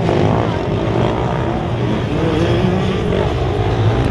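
Motocross bike engine revving, its pitch rising and falling.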